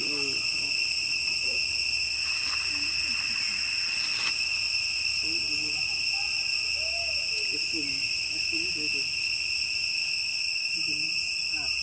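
Steady high-pitched drone of forest insects, with short low hooting calls recurring through it.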